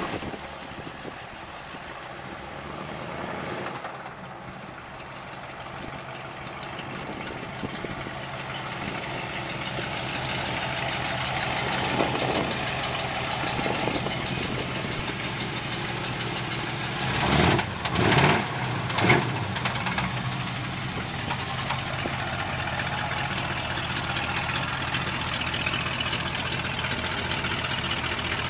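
1973 Chevrolet Nova's 386-cubic-inch stroker small-block V8 running as the car drives up, growing steadily louder as it nears. About two-thirds of the way through the engine is revved in three quick blips, then it runs steadily close by.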